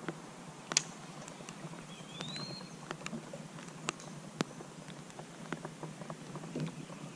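Light rain: scattered drops ticking at irregular intervals. A bird gives one short rising whistle about two seconds in.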